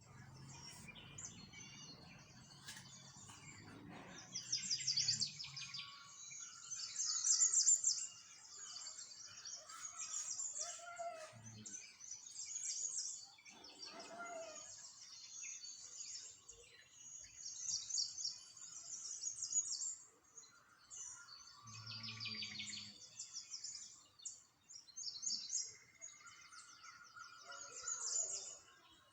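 Small songbirds chirping and singing in rapid high trills, several calls overlapping and coming in repeated bursts.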